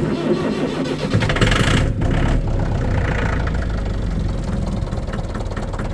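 A cold tractor engine starts and catches about a second in, then runs at a steady idle while warming up in the cold.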